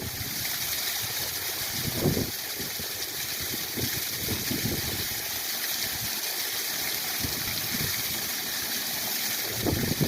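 Waterfall rushing steadily, with a few brief low rumbles about two seconds in and again near the end.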